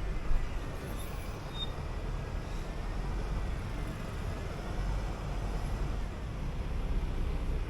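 City bus running while driving: a steady low engine rumble and road noise. A short knock comes about a third of a second in.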